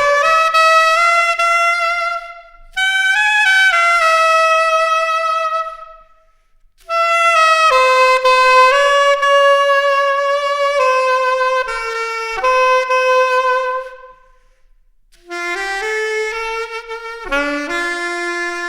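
Saxophone playing a melody on its own, with no accompaniment, in three phrases separated by short breaks.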